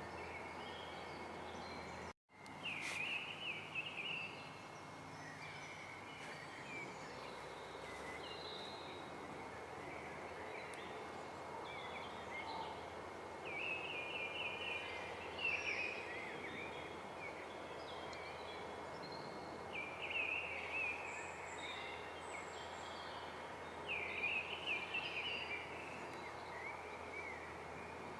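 Birdsong ambience: a small songbird sings short bursts of rapid chirps every few seconds over a steady outdoor background hiss. The sound cuts to silence for an instant about two seconds in.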